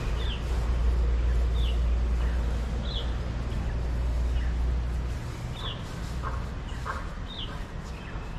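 A bird repeating a short, high, falling call about five times, over a low rumble that drops away about five seconds in.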